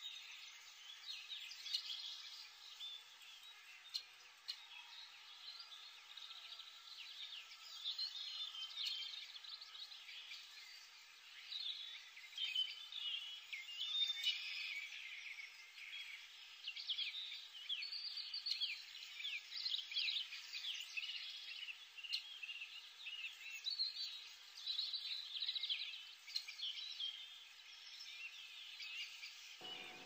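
Birds chirping: quick, high twittering calls that come and go, over a faint steady hiss.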